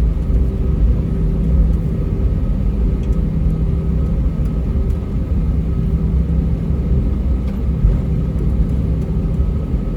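Steady low rumble inside the cabin of an Airbus A320-232 taxiing, its IAE V2500 engines running, with faint steady tones above the rumble.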